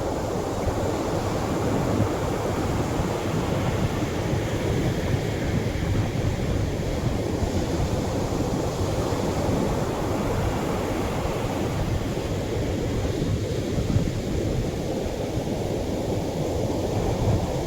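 Atlantic surf breaking on the shore: a steady, unbroken wash of wave noise, heaviest in the low end, with no single crash standing out.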